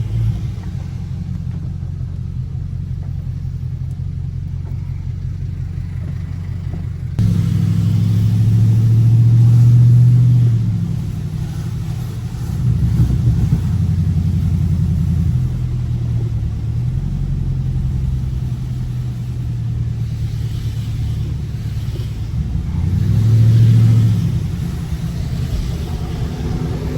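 Dodge Scat Pack's 392 HEMI V8 running under way, a steady low drone that swells and rises as the car accelerates about seven seconds in, again around thirteen seconds, and once more near the end.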